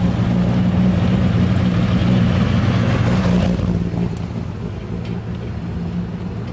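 Twin-turbo Dodge Viper V10 engine running at a steady pitch under load, dropping somewhat in loudness about four seconds in.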